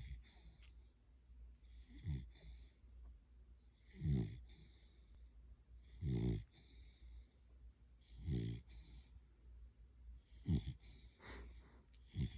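Dog snoring, one snore about every two seconds, each a low rumble that drops in pitch with a hiss of breath over it.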